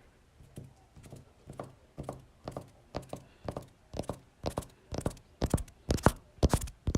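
Regular short knocks, about two a second, growing steadily louder.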